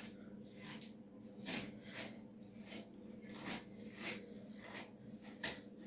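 Hair being handled close to the microphone: a faint series of short rustling strokes, about two a second and unevenly spaced.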